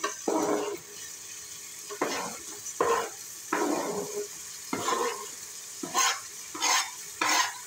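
Onions frying in hot oil in an aluminium pressure cooker, a steady sizzle, broken by about eight short bursts of knife scraping and louder sizzling as sliced tomatoes are pushed off a cutting board and drop into the oil.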